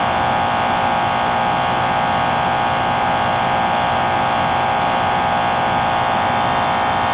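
Lennox central air conditioner's outdoor unit running, its scroll compressor and fan making a steady, loud hum with a strong droning tone, which the owner finds irritatingly noisy. The techs say it is working properly.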